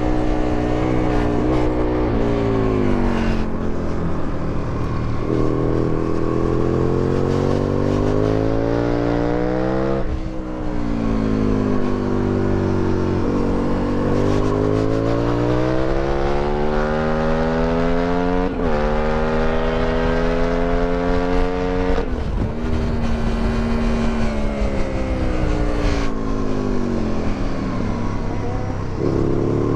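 2008 Aprilia Tuono 1000R's V-twin engine with an Akrapovic exhaust under hard riding: the pitch climbs steadily and drops suddenly at each upshift, then falls away as the bike slows, several times over. It climbs again near the end.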